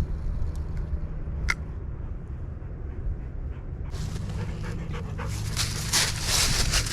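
A dog panting over a steady low rumble. The panting gets louder and denser for the last three seconds.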